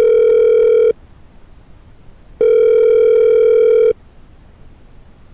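Telephone line tone: a steady electronic beep of about a second and a half, repeating every three seconds. One beep is ending about a second in, and a second sounds in the middle.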